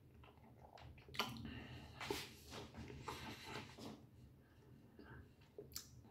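Faint eating noises, chewing and mouth sounds, coming as a cluster of short irregular clicks and squelches over the first few seconds, with one more near the end.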